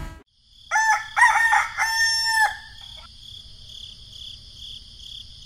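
A rooster crows once, a cock-a-doodle-doo of a few short notes ending in a longer held note, starting a little under a second in. A faint steady high-pitched ambience runs underneath and carries on after the crow.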